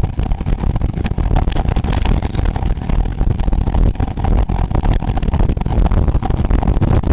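Steady rush of wind buffeting the microphone, with road noise, while riding at race speed on a road bicycle.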